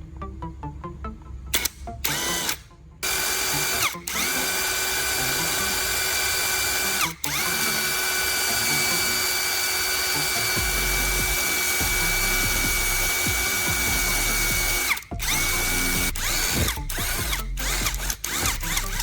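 Small DC electric motor, a 775 motor driving a homemade power tool, running at high speed with a steady high whine. It cuts out briefly twice, then runs in short on-off bursts near the end.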